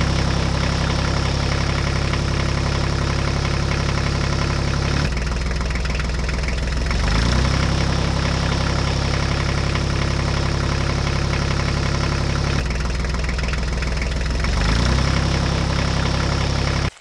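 Diesel tractor engine idling with a knocking beat. The same stretch of sound repeats about every seven to eight seconds and cuts off abruptly near the end.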